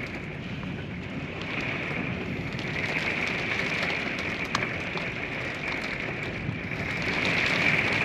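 Rain falling steadily on a small camper during a thunderstorm: an even hiss scattered with light ticks of drops, swelling slightly near the end.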